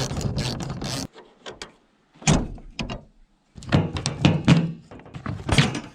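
A series of knocks and clunks of hard objects being handled, with a noisy scraping stretch in the first second, then separate thuds and a busier run of clunks over the last few seconds.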